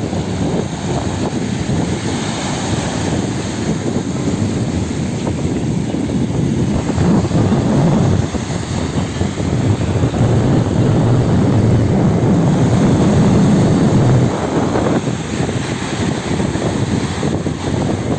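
Strong gusty wind buffeting the microphone over the wash of sea waves, a loud low rumble that swells in the middle and eases a little near the end.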